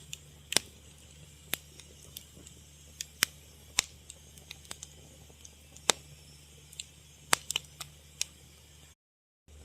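Fire crackling: irregular sharp pops and snaps, a few a second, over a faint low hum. The sound cuts out completely for about half a second near the end.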